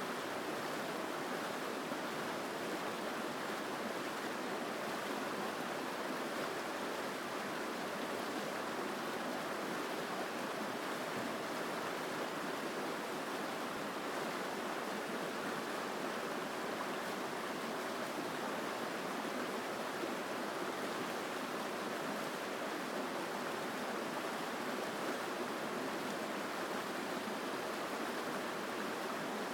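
Mountain stream rushing steadily over rocks, a strong, even sound of flowing water.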